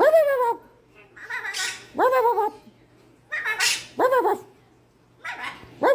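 Macaw imitating a dog's bark: about seven short, harsh barks that fall in pitch, mostly coming in pairs.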